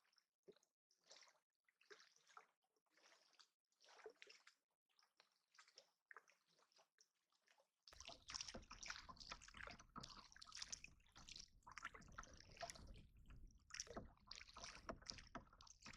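Faint water lapping and sloshing in small irregular splashes. About halfway through it changes abruptly to a busier, denser splashing with a low rumble beneath.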